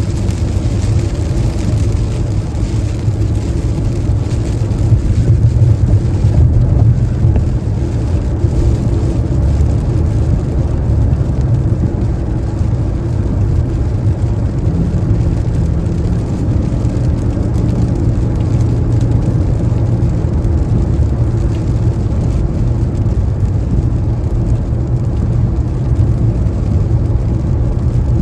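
Car driving on a rain-wet highway: a steady, low rumble of tyres and road noise.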